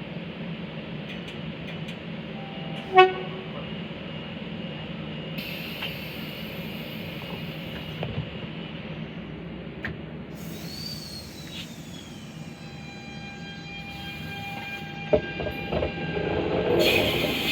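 Queensland Rail suburban electric train at a station: one short horn toot about three seconds in over a steady rumble. Thin high squealing tones and a falling whine follow around the middle, and the train grows louder near the end.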